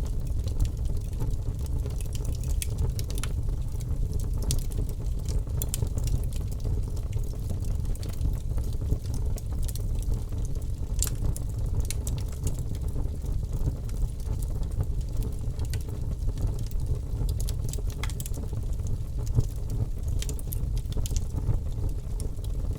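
Wood fire burning in a fireplace: a steady low roar of flames with frequent sharp crackles and pops scattered throughout.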